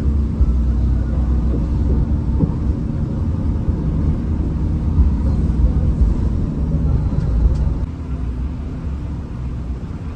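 Hino RM 280 bus on the move: a steady low engine drone with road rumble, easing off slightly about eight seconds in.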